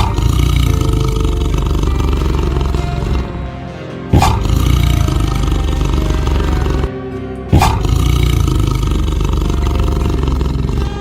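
Loud roaring from a large animal: three roars, each starting sharply and lasting about three seconds, with music underneath.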